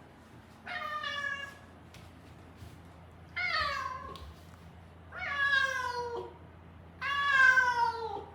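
A Siamese-mix cat meowing four times, long drawn-out calls that each fall in pitch, spaced about two seconds apart. This is the persistent calling of a cat not settling into being kept as an indoor room cat.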